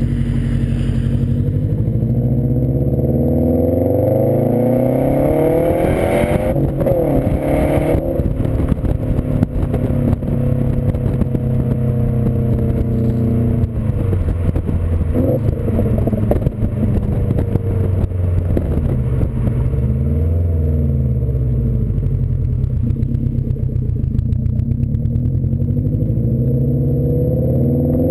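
2015 Subaru WRX STI's turbocharged 2.5-litre flat-four running through a Nameless aftermarket exhaust, its revs climbing and falling several times.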